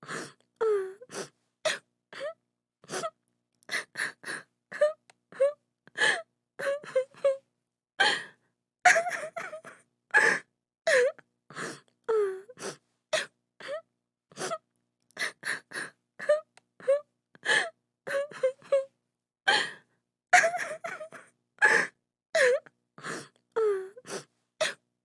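A woman crying, with rapid sobs, gasping breaths and short wailing cries, each broken off by brief silence.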